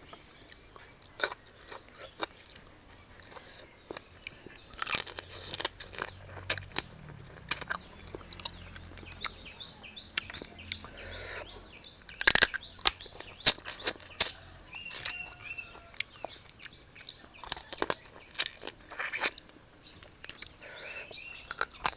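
Close-up chewing and crunching while eating spicy seafood papaya salad with fresh shrimp and blue crab: irregular crisp crunches and mouth smacks, loudest in the second half.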